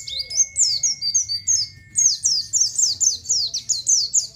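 White-eye (pleci) singing a fast, unbroken run of high, sharply falling chirps, about four or five a second: the 'ciet ciet' song.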